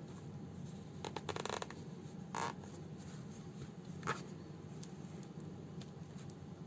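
Hand-sewing a fabric house slipper: a cluster of small clicks about a second in, then two short rasps of thread being drawn through the fabric, over a steady low hum.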